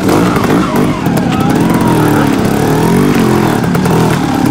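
Trials motorcycle engine revving in short blips, its pitch rising and falling again and again as the rider works the throttle.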